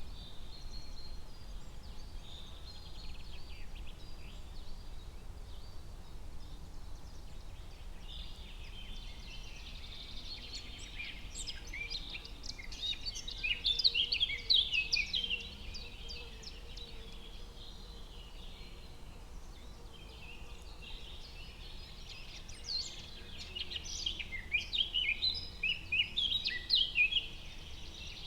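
Forest ambience of songbirds chirping and singing in two busy bouts, about eight seconds in and again from about twenty-two seconds, over a steady low background rumble.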